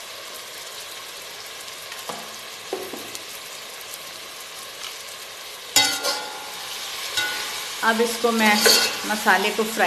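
Chicken masala sizzling as it fries in a metal pot. About six seconds in, a steel spoon starts stirring, scraping and clattering against the pot, louder than the frying.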